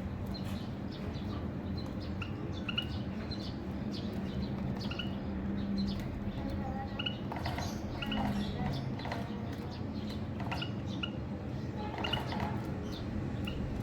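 Small cage birds chirping: short, high chirps scattered through, over a steady low hum.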